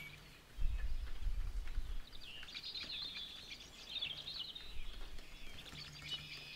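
Faint birds chirping and twittering in short, high, quickly gliding notes, heard in the background of a room. A low rumble comes in about half a second in and lasts over a second.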